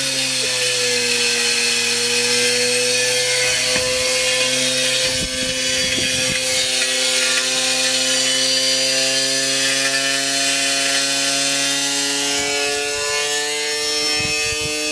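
Washing machine running with a brick inside, wrecking itself: a steady motor whine over a constant grinding, scraping noise, with a few knocks about four to six seconds in and again near the end.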